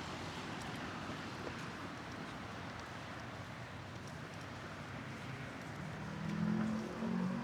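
Steady hum of city traffic outdoors, with faint, regular footsteps of someone walking. A short, low pitched sound, like a voice, comes near the end.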